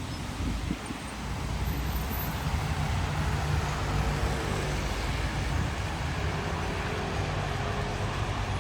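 Steady low vehicle rumble, swelling about a second in and holding.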